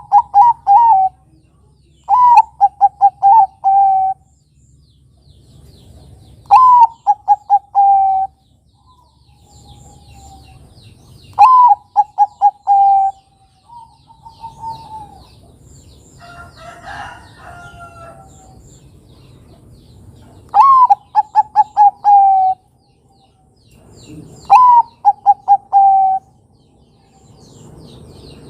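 Zebra dove (Bangkok-type perkutut) cooing in repeated phrases: each phrase is a higher opening note followed by a quick run of short staccato coos. There are about five full phrases, spaced a few seconds apart, with quieter calls and faint chirps from other birds in the gaps.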